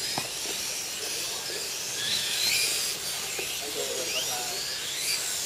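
Several radio-controlled racing motorcycles' electric motors whining, their pitch rising and falling over a steady high hiss.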